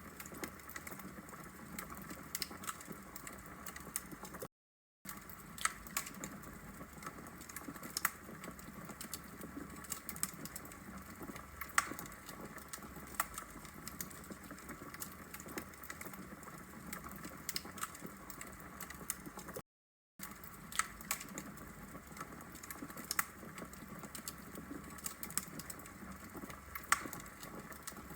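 Wood logs burning in a brick fireplace: a steady low hiss of the fire with frequent sharp crackles and pops at irregular intervals. The sound cuts out completely twice for about half a second.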